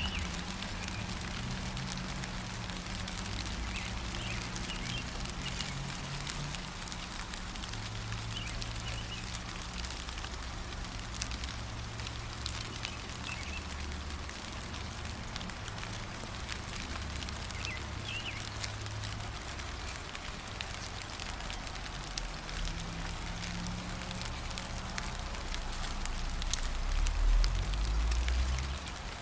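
Gentle rain falling steadily, with many small drop taps in an even hiss. Now and then there is a faint, short bird chirp. A low rumble runs underneath and swells near the end.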